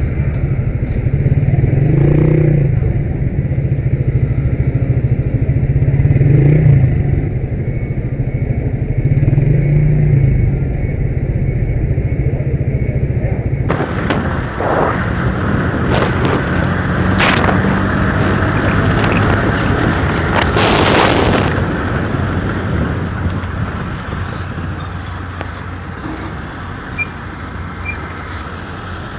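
Car engine and road noise heard from inside a moving car, the engine's pitch rising and falling a few times. About 14 s in it changes abruptly to a different recording of steady road noise with a few sharp knocks, the strongest about 21 s in.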